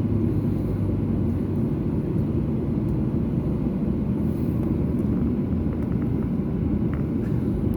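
Steady low rumble of a Boeing 737-800's cabin as its CFM56 turbofans run at idle during taxi-in after landing. A low hum fades out about a second and a half in.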